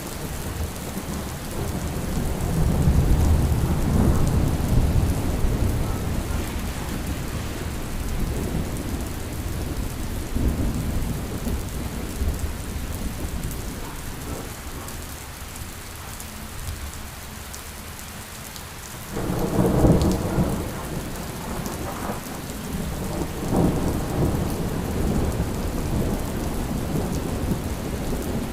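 Steady rain falling, with rolling thunder rumbling a few seconds in and a sharper, louder thunder crack about two-thirds of the way through that rumbles on to the end.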